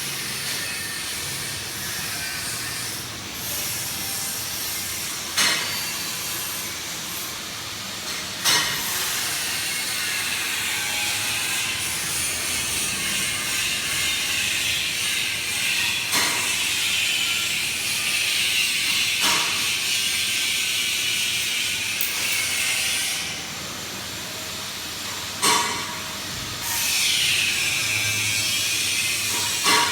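PVC flexible duct forming machine running: a steady hiss with about six sharp clacks spaced a few seconds apart.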